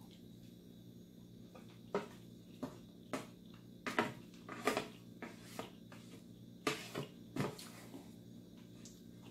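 Close-up eating sounds: a run of about a dozen short smacks and clicks of chewing, starting about two seconds in and stopping a couple of seconds before the end, over a steady low hum.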